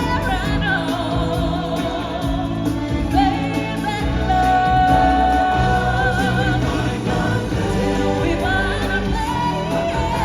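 Live stage-show music: singers holding long wavering notes over a full band accompaniment with a steady low beat.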